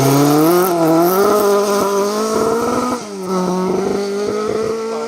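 Ford Escort MK2 rally car engine at high revs under hard acceleration, its pitch climbing; about three seconds in the revs drop suddenly for a gear change, then climb again.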